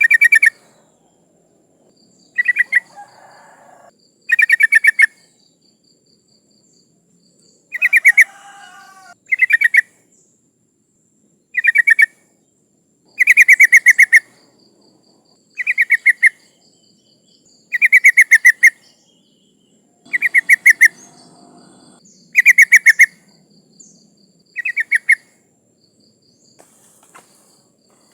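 Yellow-vented bulbul (trucukan) giving short, rapid bubbly chattering phrases, about a dozen of them each a second or two apart. This is the call of a female trucukan calling to males, used as a lure to make males sing.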